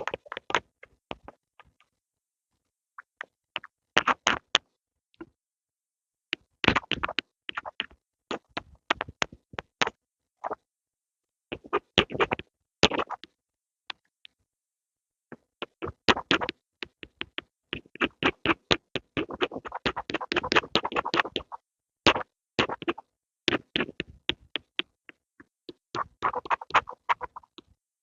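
Pencils tapping and scratching in bursts of quick sharp ticks separated by short silent pauses, with a denser run of continuous scratching about two-thirds of the way through.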